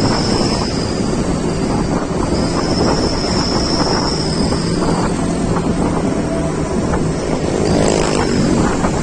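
Wind buffeting the microphone of a moving road vehicle, with its engine and road noise running steadily underneath.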